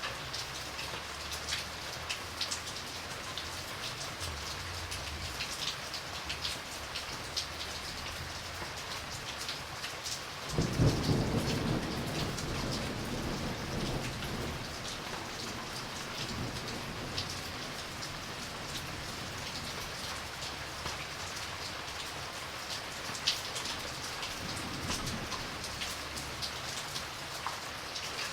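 Steady rain falling, with scattered drops ticking, and a roll of thunder that breaks in suddenly about a third of the way through and rumbles away over several seconds; a fainter rumble follows near the end.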